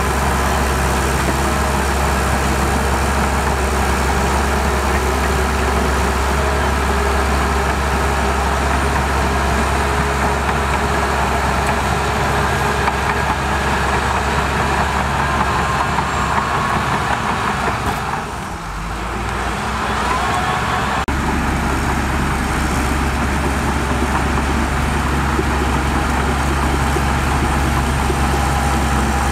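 Heavy diesel earthmoving machinery running steadily, with a deep engine rumble. It drops briefly about two-thirds of the way through, then picks back up.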